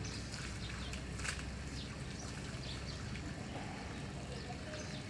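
Small birds chirping now and then over a steady low rumble, with one sharp click about a second in.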